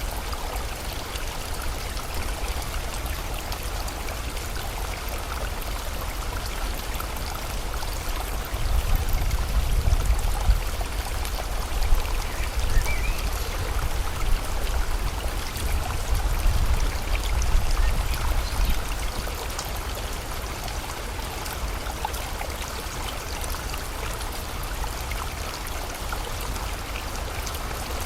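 Steady rushing water of a river and rain, an even hiss. A deep low rumble swells in the middle, from about 8 to 18 seconds in.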